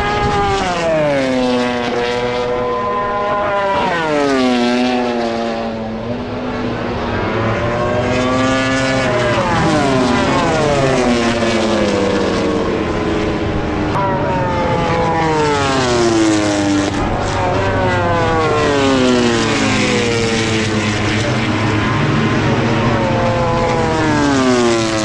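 MotoGP race motorcycles going by on track. Their engine notes fall again and again as they brake and downshift, then climb as they accelerate away, with several bikes overlapping.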